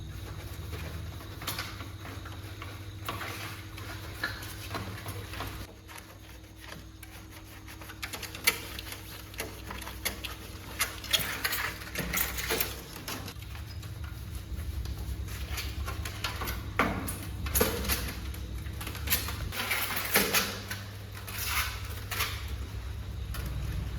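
Irregular clicks, taps and scrapes of hand tools and parts being handled during air-conditioner repair work, busiest in the second half, over a steady low hum.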